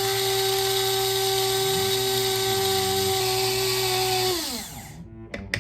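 A steady motor whine, drill-like, that slides down in pitch and stops near the end.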